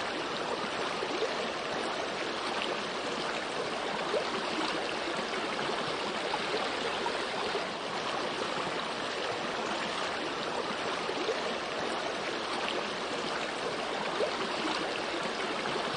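Running water, a steady trickling flow with small splashes scattered through it.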